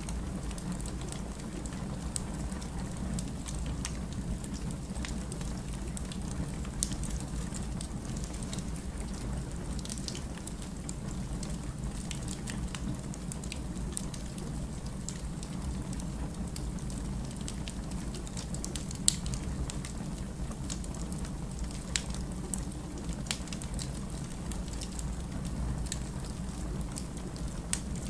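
Firewood burning in a fireplace, crackling with many small scattered pops over a steady low rumble. A few pops stand out, about a quarter of the way in and twice past the middle.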